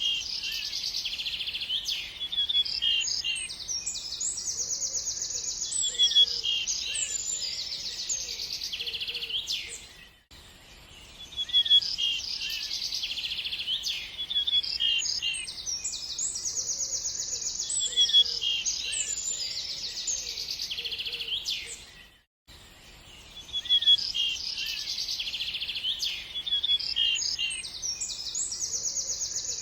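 Songbirds chirping and trilling, several high, quick calls overlapping. The same stretch of birdsong repeats about every twelve seconds, with a brief drop at each loop join.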